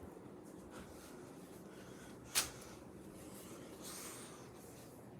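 Harbor Breeze Grace Bay ceiling fan running with a faint steady hum, and a single sharp click a little over two seconds in.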